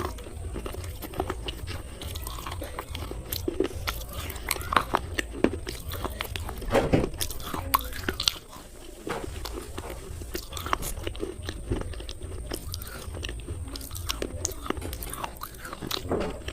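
Slate pencils being bitten and chewed close to the microphone: a run of sharp, crisp crunches and crackles, with the loudest bites around seven seconds in.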